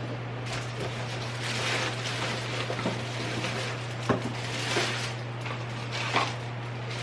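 Rustling and a few light knocks of belongings being handled during unpacking, over a steady low hum.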